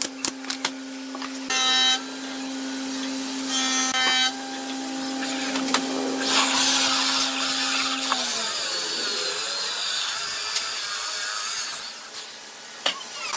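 A hand-held electric power tool working wood. Its motor runs with a steady hum, with harsher bursts twice early on and a longer, louder stretch as it bites into the wood. Then the motor winds down after being switched off, and a new motor starts near the end.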